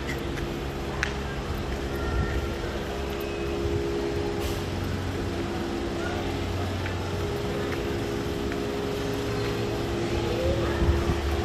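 A steady machine hum with several held tones and a low rumble, under a constant background noise.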